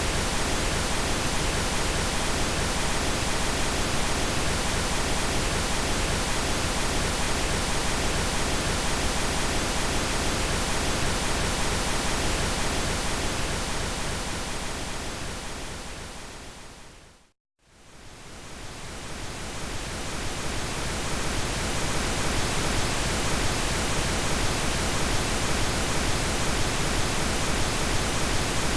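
Synthesized pink noise, a steady even hiss. It fades out gradually to silence about seventeen seconds in, then swells back up over a few seconds to its full level.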